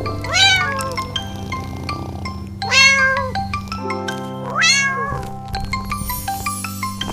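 A cat meowing three times, each meow a single arched call, over background music with held notes.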